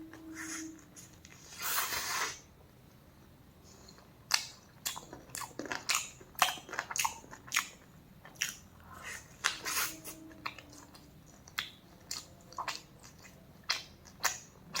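Close-miked eating: after a short burst of noise about two seconds in, a run of sharp, crunchy bites and chewing follows, irregular, about one or two a second.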